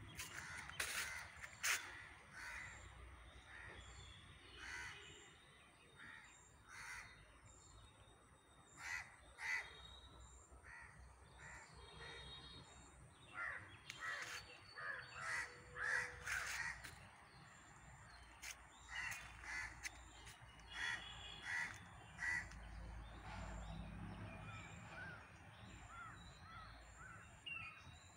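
Birds calling outdoors: short, repeated calls that come in bunches, with a few higher chirps near the end.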